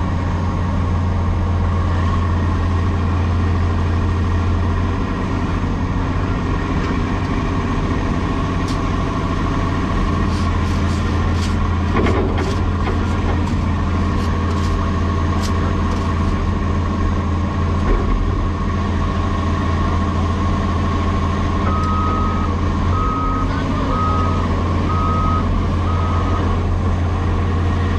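Cat 336E hydraulic excavator's diesel engine running steadily, with a run of sharp clicks partway through. Near the end a backup alarm beeps five times.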